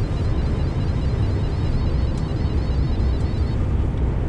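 Steady low drone of a long-haul truck's engine and road noise, heard from inside the cab while driving.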